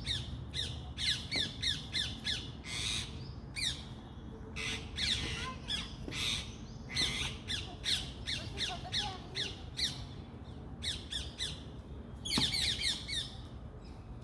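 Parrots squawking: runs of quick, shrill, falling screeches in bursts, with a quieter spell about two-thirds of the way through before another burst.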